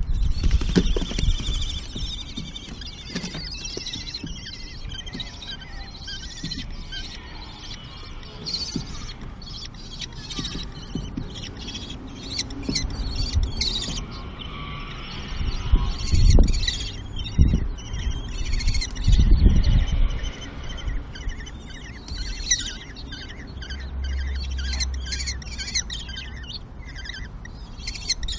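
Common kestrels calling at the nest as the parent feeds the chicks: many short, high-pitched calls repeated throughout, with a few dull low thumps a little past halfway.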